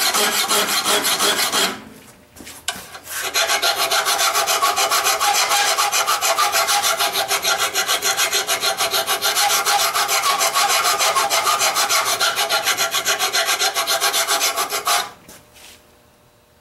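Hand file rasping across the cutting edge of a steel lawn mower blade held in a vise, in quick, even strokes. The blade is being sharpened back to an edge after being worn dull and rounded. The filing pauses briefly about two seconds in, then runs steadily until it stops near the end.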